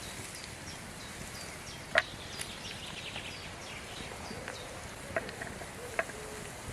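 Steady light rain, with small high chirping calls scattered through it and a few sharp taps, the loudest about two seconds in.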